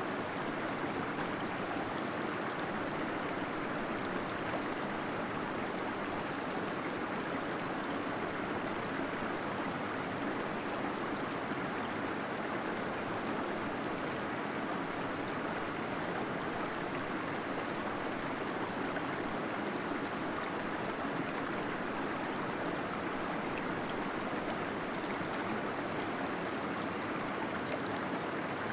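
Small waterfall splashing and gurgling inside a cave: a steady, even rush of falling water.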